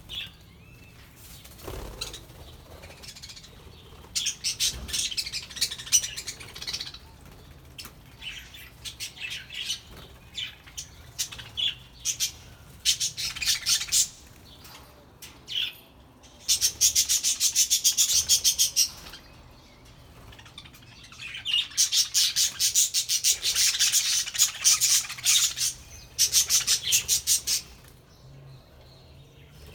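A flock of budgerigars chattering and warbling: dense, rapid, high-pitched chirps coming in bursts of a few seconds, with quieter spells between.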